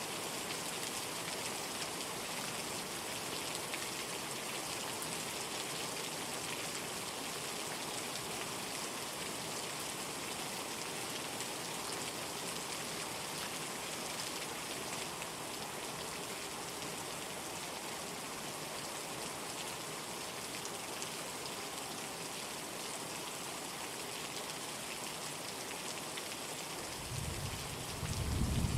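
Steady rain falling in a continuous hiss. About a second before the end, a low rumble of thunder swells up and grows louder.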